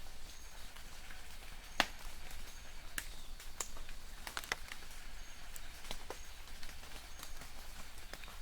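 Light rain in a forest: scattered drops tap irregularly on leaves, one sharper drop about two seconds in, over a soft steady patter. Faint short bird chirps come from the distance.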